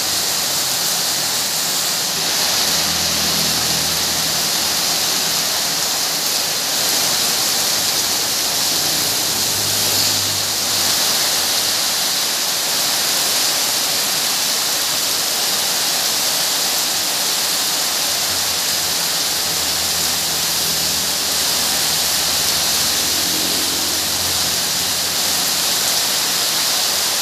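Heavy rain falling steadily, a dense, even hiss, with a faint low hum that comes and goes underneath.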